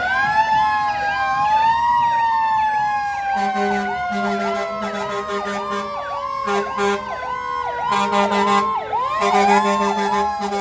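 Fire truck sirens sounding together. One slow wail rises, then falls steadily over several seconds and climbs again near the end, under a fast repeating yelp. From about a third of the way in, the truck's horn sounds in short repeated blasts.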